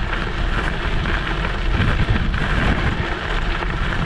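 Wind buffeting the microphone of a scooter-mounted camera, over the rumble and crackle of an electric scooter's tyres rolling on a gravel road.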